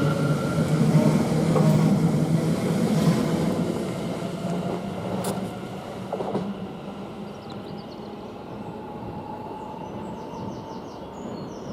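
Class 720 electric multiple unit pulling away, its rolling noise and motor whine fading as it leaves, with a couple of clicks from the wheels over the track about halfway through.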